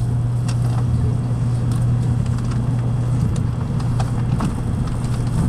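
Cabin running noise of a Tokaido Shinkansen 700A series train under way: a steady low hum over an even rush, with a few faint clicks.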